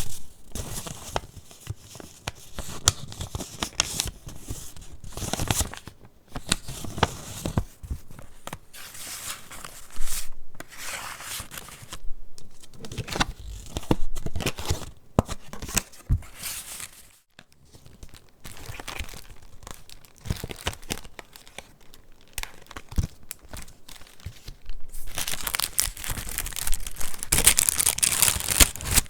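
Paper pages of a handmade junk journal being handled and turned, rustling and crinkling in irregular bursts with crisp flicks, busiest near the end.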